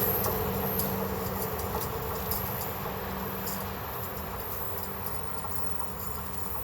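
A train moving away, its steady hum fading into the distance. Insects chirp in short high ticks over it and become the main sound as the train dies away.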